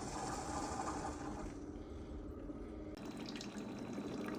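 Two drip coffee makers, a Fellow Aiden and a Ninja, brewing: hot water hissing and trickling through the brew heads, with a faint steady hum. About three seconds in, the sound changes.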